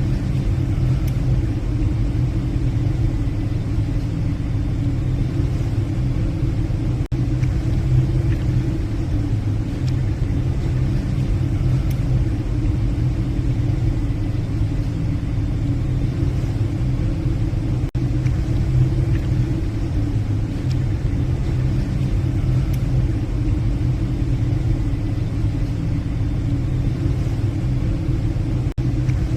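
Steady low rumble of a passenger ship's engines and machinery heard from the bridge, with a deep hum under it. It drops out for an instant three times.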